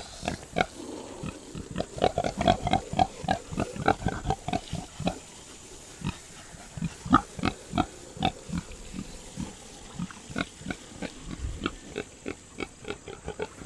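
American Guinea Hogs grunting in quick short grunts, several a second, one after another throughout.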